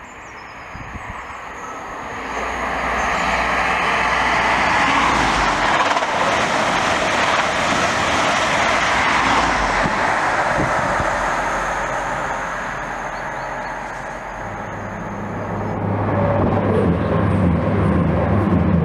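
Diesel passenger train approaching and passing at speed: a rush of wheel and rail noise builds up and holds for several seconds. From about two-thirds of the way in, a steady low diesel engine drone joins it as the coaches go by beneath.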